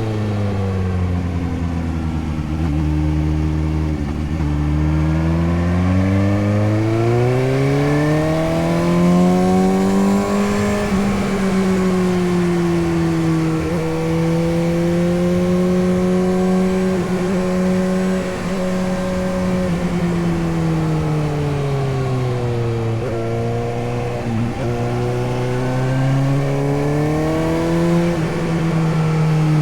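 Suzuki GSX-S750's inline four-cylinder engine pulling a motorcycle along. Its note drops low at first, climbs over several seconds to a steady cruising pitch, falls away again, and rises once more near the end as the throttle is rolled on and off.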